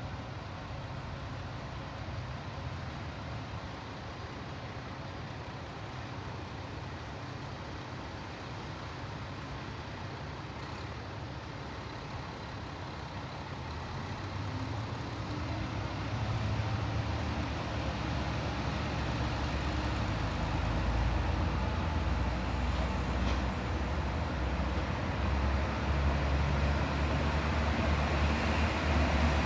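Diesel engines of a two-car Kantō Railway KiHa 0 series railcar set running at idle, then rising in level from about halfway through as the engines are throttled up and the train pulls away from the station.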